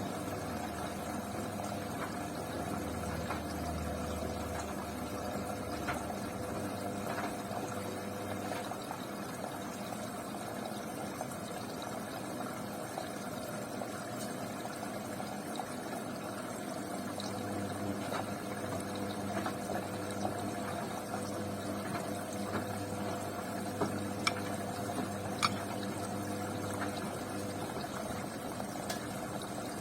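Beko washing machine early in its wash, water running and sloshing inside, with a low motor hum that comes and goes as the drum turns in spells, and a few small clicks near the end.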